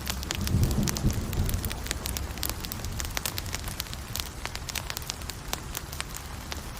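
Campfire burning: a steady low rush of flames with many irregular sharp crackles and pops from the burning wood, the rush swelling briefly about half a second to a second and a half in.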